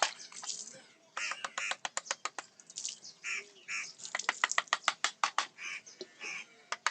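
Rapid, sharp taps of a mallet driving a carving chisel into teak wood, about five a second, in runs with brief pauses.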